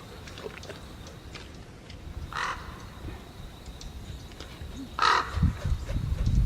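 A bird calling twice, two short harsh calls about two and a half seconds apart. Low rumbling noise rises after the second call.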